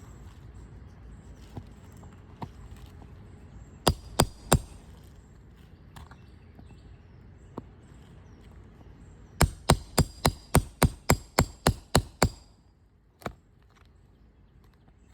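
Hammer blows on a shingle roof: three quick strikes, then after a pause a rapid run of about a dozen blows at about four a second, then one more.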